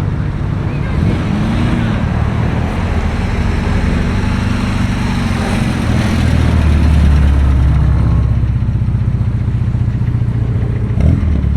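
A car engine running at idle close by, a low steady rumble that grows louder about six seconds in, with a brief sharp bump near the end.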